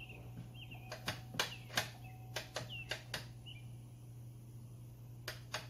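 Small birds chirping in short, quick notes, mixed with a few irregular sharp clicks and taps. A faint low steady hum sits underneath.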